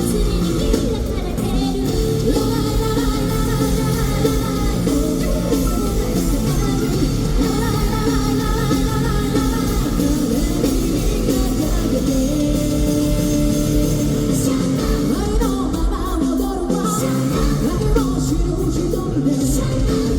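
Live rock band playing a fast song through an arena sound system: electric guitars, bass, drums and keyboard, with a woman singing.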